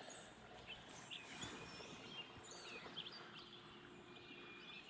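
Faint outdoor ambience of several birds chirping and calling in short, scattered notes over a light background hiss.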